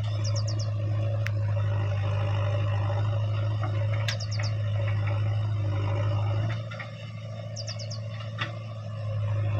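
A steady low hum, with a small bird giving a quick run of chirps three times, a few seconds apart. The hum drops away about two-thirds of the way through and returns at the end.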